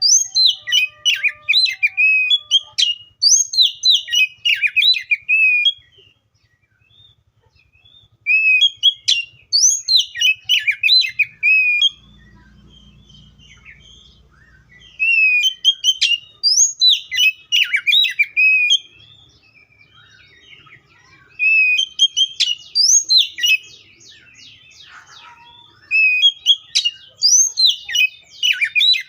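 Oriental magpie-robin (kacer) singing in about five bursts of quickly varied whistles and chirps, each a few seconds long, with short pauses between them.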